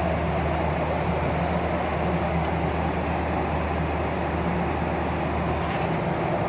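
Steady cabin noise of a Boeing 737 airliner in flight: an even rush of air and engine drone with a constant low hum underneath.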